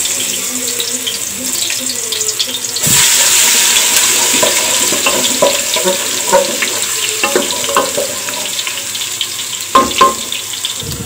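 Ginger-garlic paste frying in hot oil in a metal pot: a steady sizzle that gets louder about three seconds in, with the wooden spatula stirring and scraping against the pot and a couple of knocks near the end.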